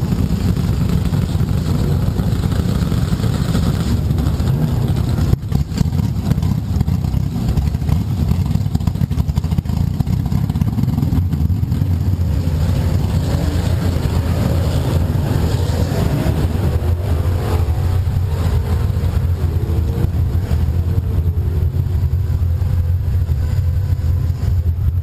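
A drag car's engine idling loudly and steadily, heard close up from its own hood. About two-thirds of the way through the sound settles into a smoother, steadier idle.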